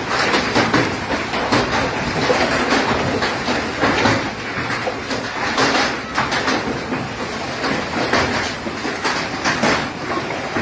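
Hailstones pelting a hard surface in a dense, irregular clatter of impacts over a steady roar of falling ice and rain.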